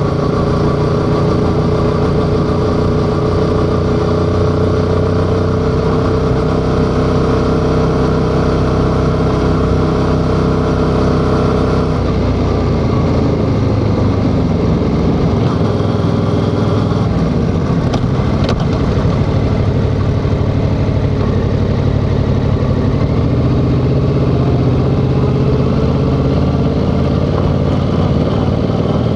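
Yamaha XSR700's 689 cc parallel-twin engine under way: a steady pull for about twelve seconds, then revs dropping and rising as the bike slows and changes gear, before settling into a steady pull again. A single sharp click comes about 18 seconds in.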